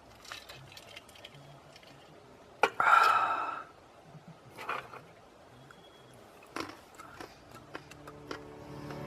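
Faint clicks and rustling of handling noise, with one louder rasping sound lasting about a second, about three seconds in.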